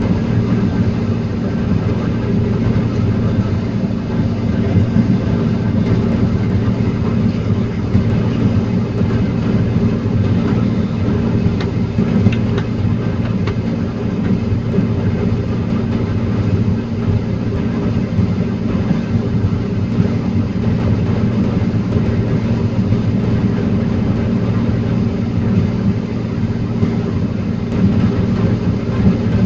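Heavy diesel engine of a forestry loading machine running steadily.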